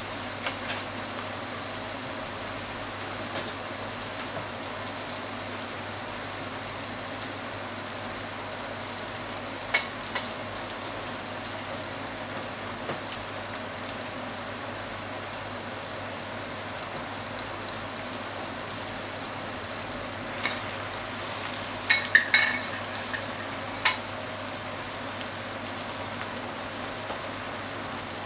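Diced chicken, onion and corn in ketchup sauce sizzling steadily in a non-stick frying pan. A few sharp clinks and knocks of utensils against the pan stand out, one near ten seconds in and a louder cluster about three quarters of the way through.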